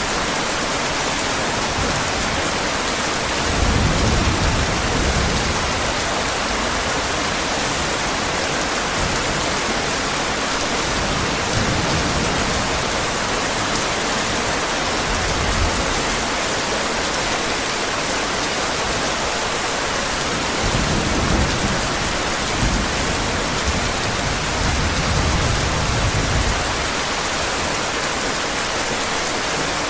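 Heavy rain falling in a steady dense hiss, with low rolls of thunder rumbling underneath, first about four seconds in and again several times in the second half.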